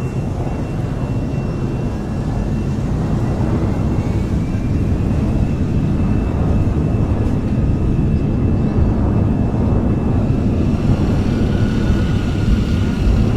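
Aeroplane engines droning: a steady deep rumble that slowly grows louder, with a faint high whine over it.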